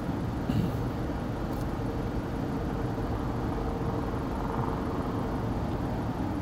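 Car engine idling with a steady low rumble, and a short knock about half a second in.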